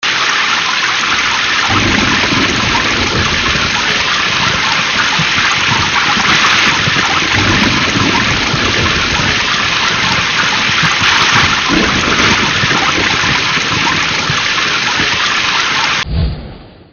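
Thunderstorm sound effect: heavy, steady rain hiss with three low rolls of thunder. Near the end it turns duller with a low thump and fades out.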